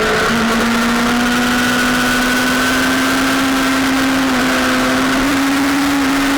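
Sportbike engine running hard at high revs, its pitch climbing slowly and steadily under acceleration, over a loud steady rushing noise.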